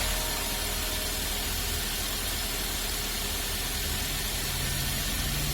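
Daihatsu Gran Max engine idling steadily, with a steady hiss over it.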